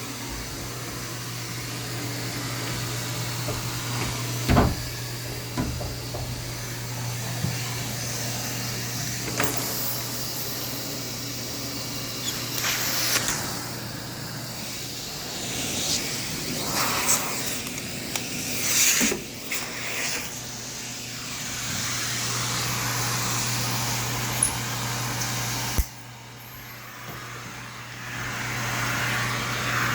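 Vacumaid central vacuum running through its hose, a steady suction drone and airflow rush, with the occasional knock of the cleaning tool against the floor or fixtures. About two seconds before the end the suction noise cuts down sharply, then swells back.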